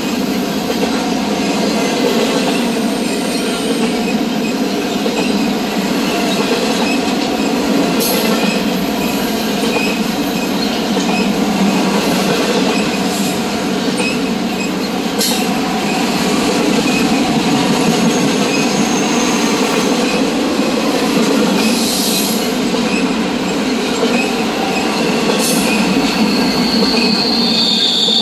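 Double-stack intermodal freight train's well cars rolling past: a steady rumble and rattle of steel wheels on rail, broken by a few sharp clanks, with a high wheel squeal starting near the end.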